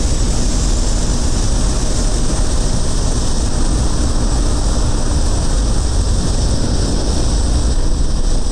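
A 160 cc motorcycle cruising at highway speed: steady engine drone buried under heavy wind rush on the microphone.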